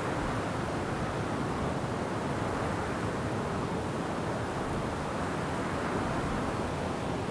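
Steady rushing of wind through forest trees, mixed with falling rain, an even noise that holds at the same level throughout.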